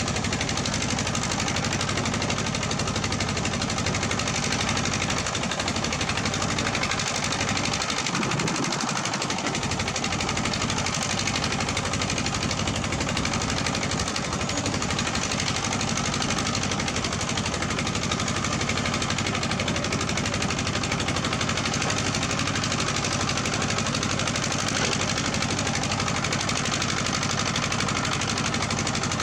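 Heavy-equipment diesel engine running steadily with a fast, even chugging beat.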